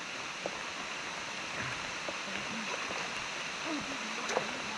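Steady rush of a flowing stream, with faint voices briefly near the end.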